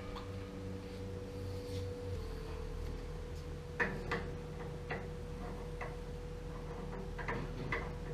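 A steady hum with a constant tone, joined from about four seconds in by a handful of light, scattered clicks or taps.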